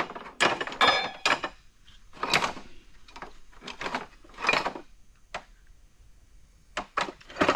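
Small metal hardware being rummaged through in a parts box or drawer: a string of separate clinks and rattles, with a short lull near the end.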